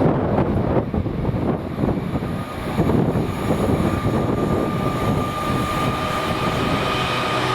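A train running by: a dense, rumbling noise, with a steady high whine coming in about three seconds in and holding.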